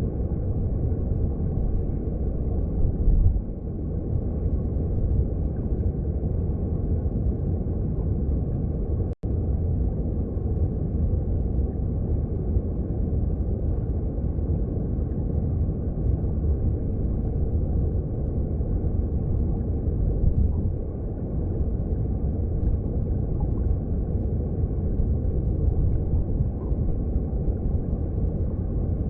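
Mountain stream heard underwater: a steady low rumble of flowing water, with a split-second dropout to silence about nine seconds in.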